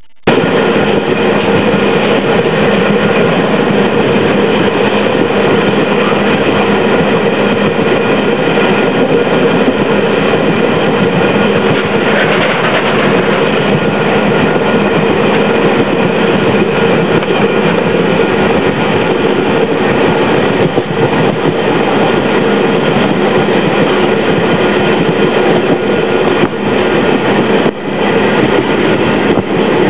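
Passenger train running at speed, heard from aboard: a loud, steady rumble and rattle of the wheels and carriage with a constant hum.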